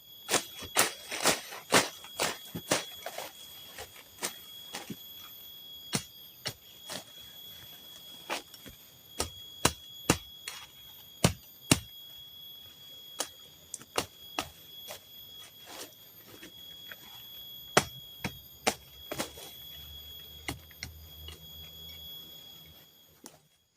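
Irregular sharp knocks and cracks of wood being cut and broken, one to three a second, over a steady high-pitched drone of forest insects that stops abruptly near the end.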